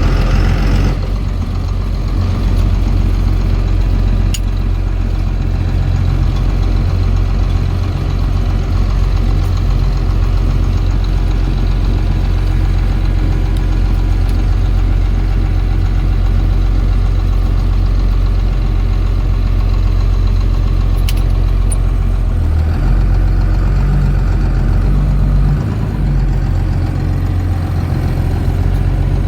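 Cummins turbo diesel in a 1982 Chevy C30 idling steadily, a low, even rumble.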